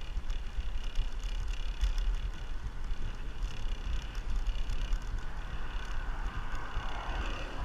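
Wind buffeting the microphone over the tyre and road noise of a bicycle ride: a steady low rumble with a faint hiss, with a rushing sound swelling near the end.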